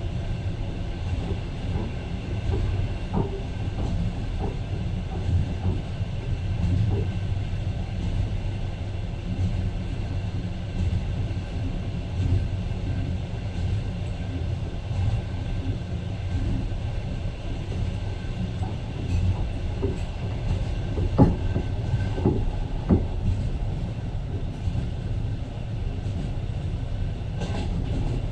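Train running, heard from aboard: a steady low rumble with now and then a sharp knock of the wheels, several of them close together about three quarters of the way through.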